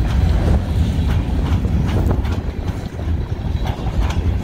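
Covered hopper cars of a freight train rolling past: a steady low rumble with irregular sharp clacks as the wheels pass over the rail joints. Wind buffets the microphone.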